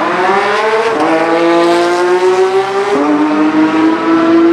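Porsche 991 GT3 RS's naturally aspirated flat-six with a Sharkwerks exhaust, loud and accelerating hard. The engine note climbs, drops sharply at an upshift about a second in, climbs again, and drops at a second upshift about three seconds in.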